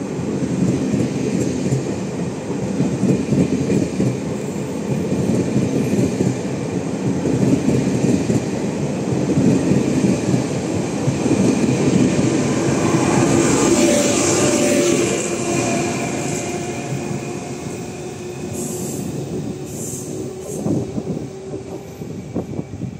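Taiwan Railway train running past at close range: wheels clattering on the rails with a steady whine over the rumble. It grows louder to a peak a little past halfway, then fades as the train moves away.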